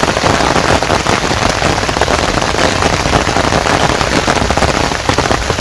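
Heavy rain falling, a loud, steady, dense patter of drops hitting a surface.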